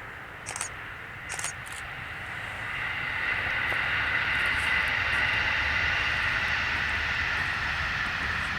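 A train approaching and passing: its rolling noise swells over the first few seconds, peaks in the middle and slowly fades.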